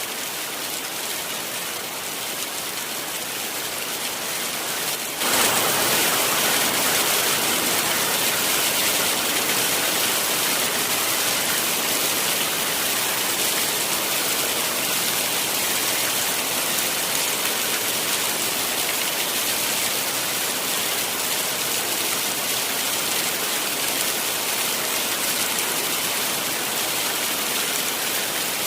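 Heavy rain falling steadily, a dense even hiss of rain. About five seconds in it abruptly becomes louder and hissier, then stays at that level.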